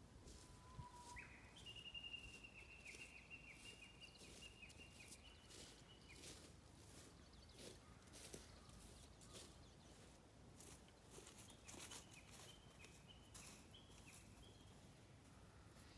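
Near silence outdoors: a faint, high, drawn-out bird call, heard twice, with scattered faint clicks.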